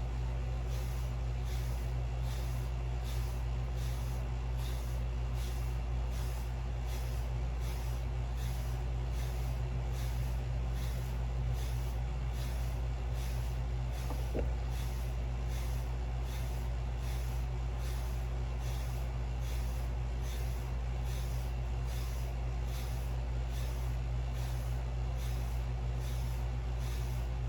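Torino Pro 1556 medium-soft wave brush swept over short waved hair in steady, even strokes, about one and a half swishes a second, over a steady low hum.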